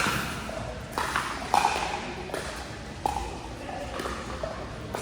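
Pickleball paddles striking a hard plastic ball during a doubles rally: sharp pops roughly once a second.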